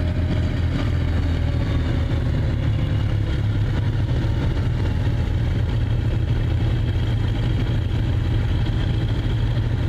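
Tank engine idling steadily with an even, low rumble.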